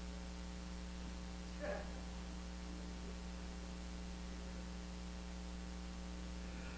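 Steady electrical mains hum from the sound system, with a faint brief sound about two seconds in.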